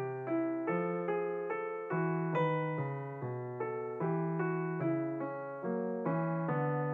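Background piano music: an even, gentle melody of notes struck about twice a second over a low bass line.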